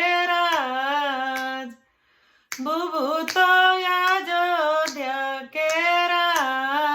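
A woman singing a traditional Bhojpuri wedding song (mangal geet) unaccompanied, in long, held, ornamented phrases, with a short break about two seconds in.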